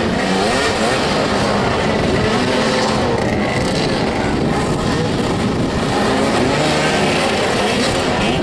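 Several motoball motorcycles' engines revving up and down over and over, their pitches rising and falling against one another.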